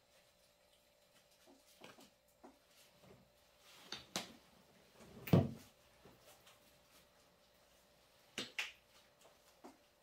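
Scattered small knocks and clicks from objects being handled and set down, with one louder, deeper thump about five seconds in and two sharp clicks close together near the end.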